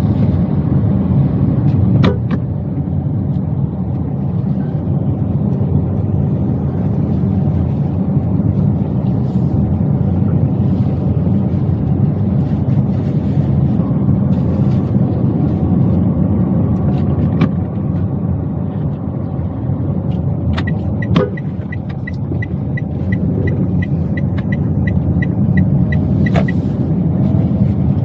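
Toyota Wigo driving, heard from inside the cabin: steady low engine and road noise with a few isolated clicks. About two-thirds of the way in, the turn-signal indicator ticks regularly, about two and a half times a second, for some six seconds.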